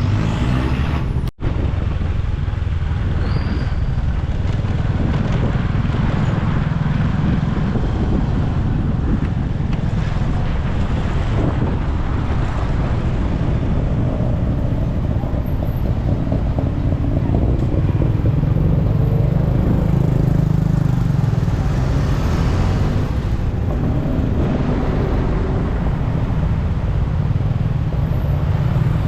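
Steady road traffic and motorbike engine rumble, as heard riding through city traffic, with a brief cut in the sound about a second in.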